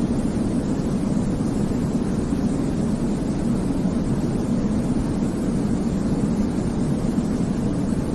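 Steady baby-sleep white noise: an even, deep hiss weighted toward the low end, with no changes or breaks.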